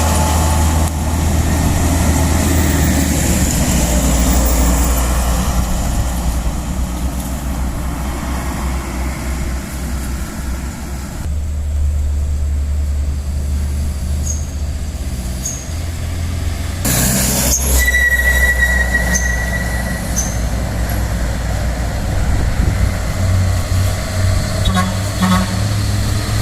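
Heavy truck engine running with a steady low drone, which changes abruptly about eleven and seventeen seconds in. A short steady high tone sounds a little after the second change.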